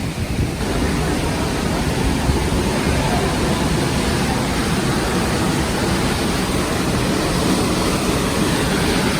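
Waterfall rushing: a steady, dense roar of falling water that grows louder about half a second in.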